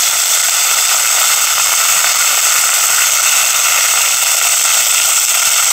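Breaded sea bass cutlets frying in hot oil: a steady, even sizzle.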